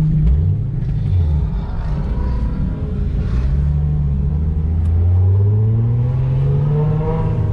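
Nissan 350Z's V6 engine pulling at low revs. Its note dips and rises about a second in, then climbs slowly and steadily over the last few seconds.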